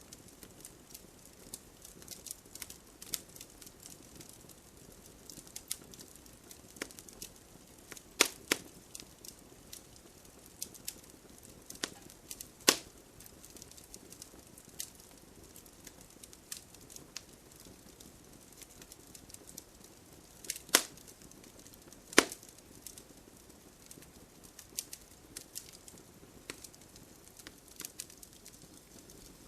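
Wood campfire crackling: a steady scatter of small, irregular snaps over a soft hiss, with about five louder pops from the burning wood.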